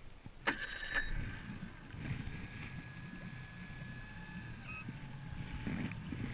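Boat motor running as the boat gets under way, a low rumble with a steady whine over it. There is a sharp click about half a second in.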